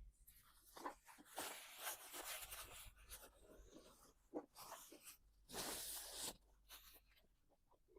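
Close-miked eating sounds from fried chicken and spicy noodles: small crunches and mouth clicks, with two longer hissing bursts, one about a second and a half in and one near six seconds.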